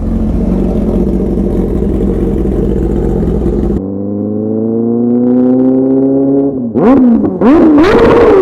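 Kawasaki ZX-10R inline-four through an SC-Project CRT exhaust, running at a steady idle-like pitch for about four seconds. The pitch then climbs smoothly for a few seconds, and near the end the engine revs up and down sharply several times.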